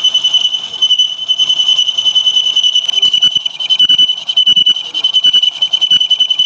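Lathe cutting tool squealing against a metal workpiece: a steady high-pitched screech that wavers rapidly in loudness.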